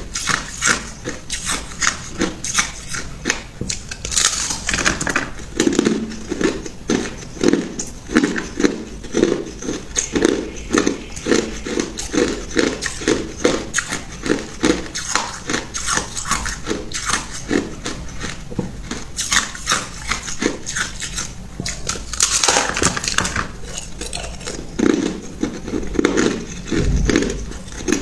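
Ice being crunched and chewed close to the microphone: a dense run of crackling crunches, with stretches of steady chewing at about two to three bites a second.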